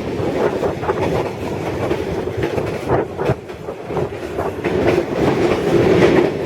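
Passenger train running on the rails: a steady rumble of the carriage with wheels clacking over rail joints, including a few sharp clacks about halfway through.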